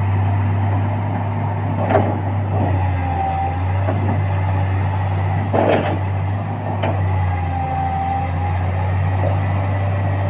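Excavator's diesel engine running steadily, with a few sharp knocks and two brief whines over the drone.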